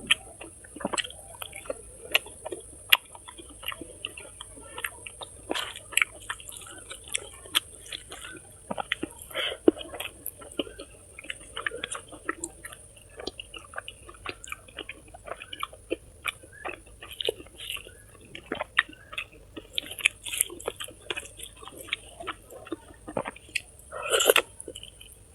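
A person chewing food close to the microphone: irregular wet smacks and clicks of the mouth, with a louder one near the end.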